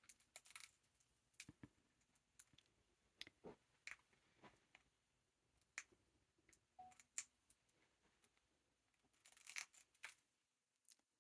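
Hahn's macaw's beak nibbling at a small piece of bread: faint, irregular clicks and crackles, with a denser run of them near the end.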